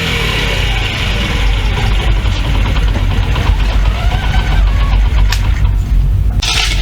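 Honda Monkey Gorilla's 49cc single-cylinder four-stroke air-cooled engine running steadily at idle, with a short hiss near the end.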